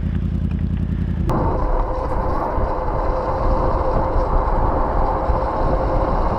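Motorcycle engine running with wind and road noise. About a second in, the sound changes abruptly to a steady drone with a hum at one fixed pitch.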